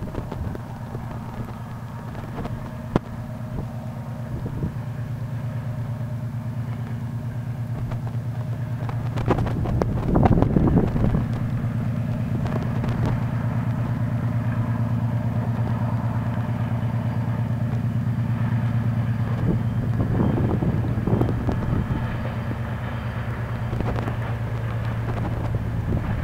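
3TE10M diesel locomotive running with a steady low drone and a fast pulse from its two-stroke diesel engines, slowly growing louder. Brief rushing noises come about ten seconds in and again about twenty seconds in.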